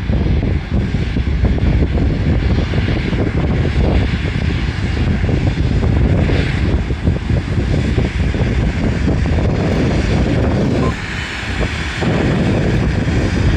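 Boeing 777-300 jet engines running, a loud steady rumble with a hiss above it that briefly drops in level about eleven seconds in.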